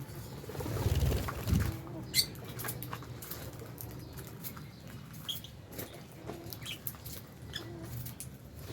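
Lovebirds in an aviary giving short, scattered chirps among light patter and rustling. A louder low sound about a second in.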